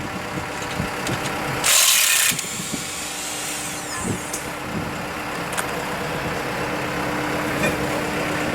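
Engine running steadily. About two seconds in, a loud hiss lasts about half a second.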